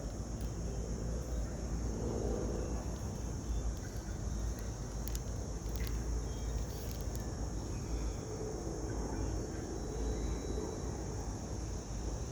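Outdoor evening ambience: a steady low rumble under a constant high-pitched hum, with faint murmuring and a few soft clicks.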